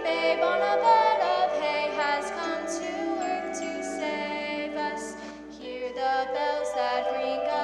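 Music with female voices singing a song, a few singers or a small choir, over held accompanying notes; the singing dips briefly about two thirds of the way through.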